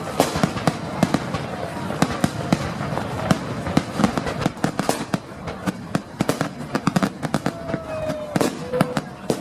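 Fireworks display going off: a rapid, unbroken string of bangs and crackles, several a second.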